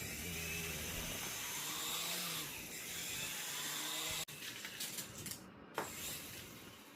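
Small electric rotor motors of a toy RC helicopter whirring, the pitch rising and falling as the throttle changes. The sound drops off sharply about four seconds in, followed by a few light clicks.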